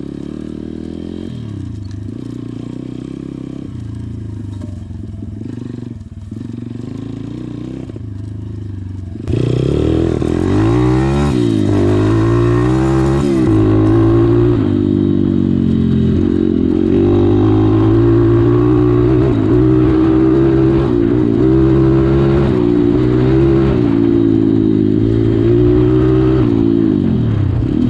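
Stomp Z3R140 pit bike's 140cc single-cylinder engine running at low revs, then from about nine seconds in much louder, its revs rising and falling over and over as it is ridden hard.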